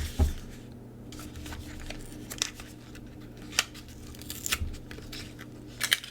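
Plastic packaging of a Hobonichi Techo x Deco Rush tape roller being opened and handled: a soft thump near the start, then scattered clicks and crinkling.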